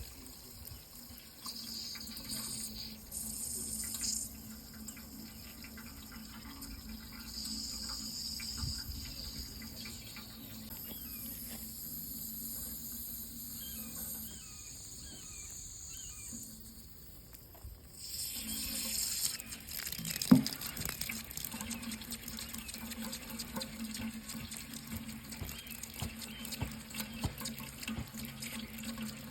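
Water running steadily from a tap into a sink, the flow getting louder about two-thirds of the way in. There is one sharp knock shortly after.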